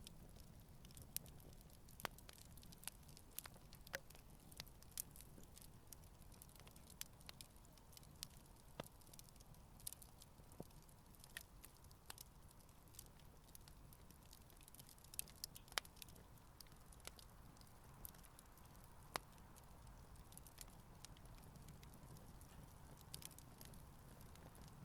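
Wood campfire crackling: sharp, irregular pops and snaps over a faint low rumble of the flames, burning gently.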